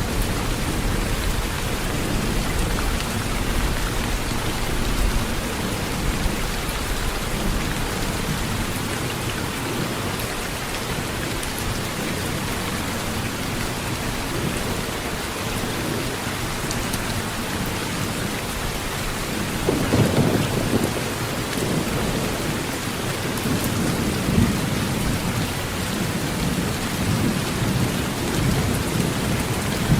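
Steady heavy rain drumming on a metal tin roof, with low rolling thunder underneath; a stronger rumble of thunder swells about two-thirds of the way through.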